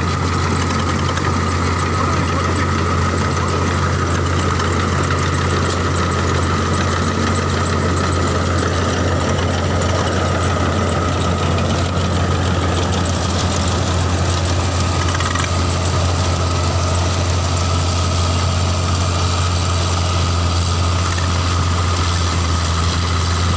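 Tractor engine running steadily with a constant low drone and no change in speed.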